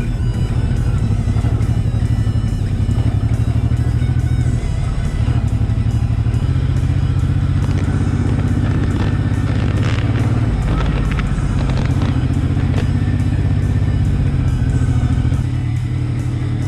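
Cruiser motorcycle's V-twin engine running steadily on a dirt road, under background music.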